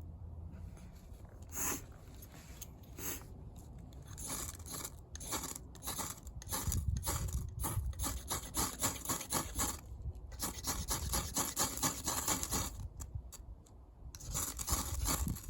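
Runs of rapid, repeated scraping strokes, several a second, broken by short pauses.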